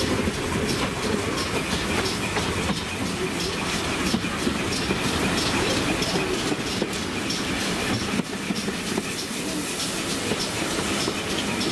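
Carriage of a heritage steam train running along the line, heard from inside the coach: a steady rumble of wheels on rail with clicks from the rail joints.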